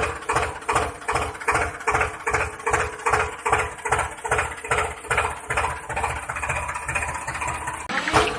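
Tractor engine chugging steadily at idle, an even putt-putt of about three beats a second over a steady hum.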